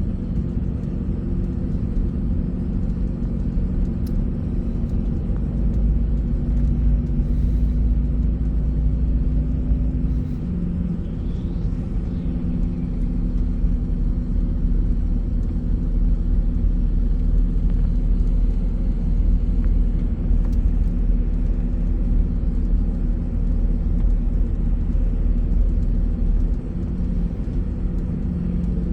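Bus engine running with a steady low rumble of road noise. The engine note shifts about ten seconds in and again near the end.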